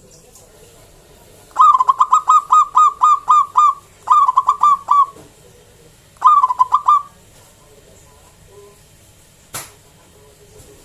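Zebra dove (local perkutut) singing: three phrases of rapid staccato cooing notes, the first the longest. A single sharp click comes near the end.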